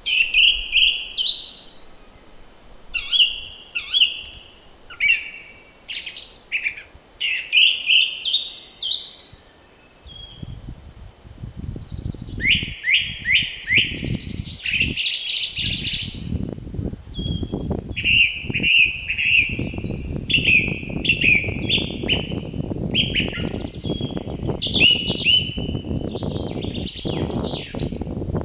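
Songbirds singing, with short chirping phrases repeated throughout. About a third of the way in, a gusty wind rumble rises underneath and keeps going.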